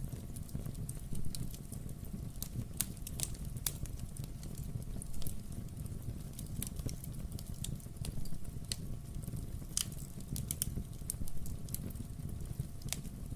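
Wood fire burning in a fireplace: irregular sharp crackles and pops of burning logs over a steady low rumble.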